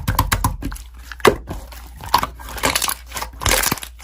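Slime being squeezed and poked by hand, making a quick, irregular run of sticky clicks and crackles.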